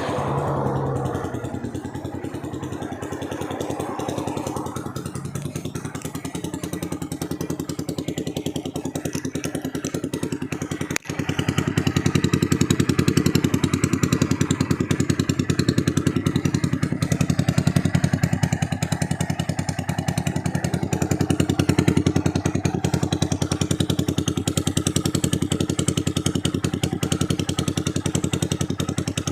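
Honda MSX 125's single-cylinder four-stroke engine, bored out with a 60 mm piston on the stock stroke, running steadily through a loud exhaust. The sound breaks off for an instant about eleven seconds in and comes back louder.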